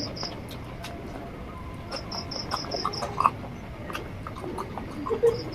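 A cricket chirping in short runs of evenly spaced high chirps, about five a second, with faint clicks and smacks of someone eating close by.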